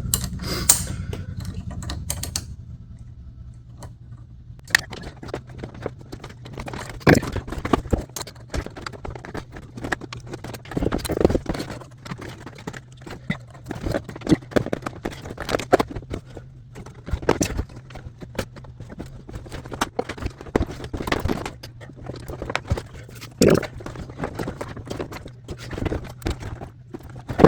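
Irregular clicks, knocks and rattles of a car's door trim panel and parts being handled and fitted during door reassembly, over a steady low hum.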